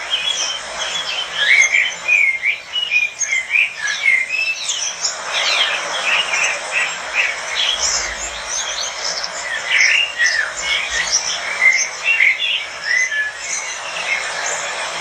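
A flock of caged lovebirds chirping and squeaking together, many short, high calls overlapping in a continuous chatter.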